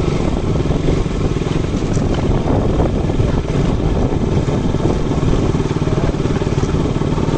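KTM RC 200's single-cylinder engine running steadily as the motorcycle is ridden slowly.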